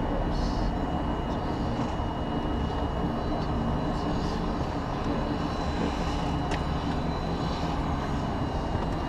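Helicopter engine and rotor running steadily, with a thin high whine held over the noise.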